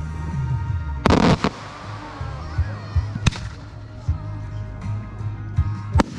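Aerial firework shells bursting over music. There is a loud bang with a short crackle about a second in, then sharp single bangs about three seconds in and again near the end.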